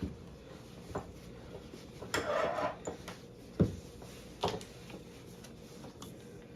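Scattered sharp clicks and knocks of hand work with small tools and parts, with a short scraping rub about two seconds in and the loudest knock a little after the middle.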